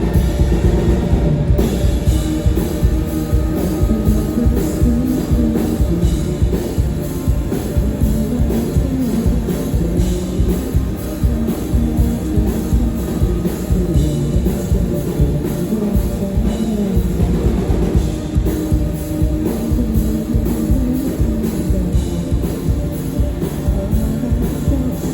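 Rock band playing live and loud: drum kit and guitar.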